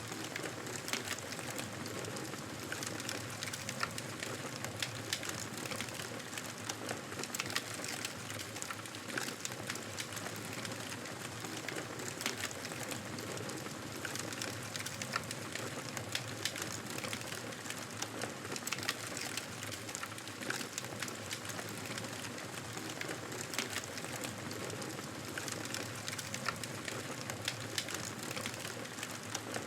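Wood fire burning in a fireplace: a steady hiss of flames with frequent irregular crackles and pops from the burning logs.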